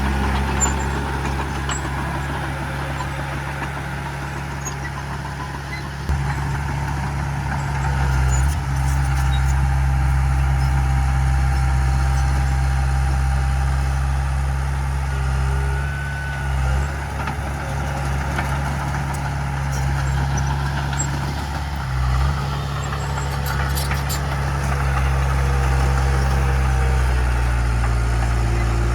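Diesel engine of heavy earthmoving equipment running steadily under load, getting louder about six seconds in, with brief dips twice and a few faint clicks.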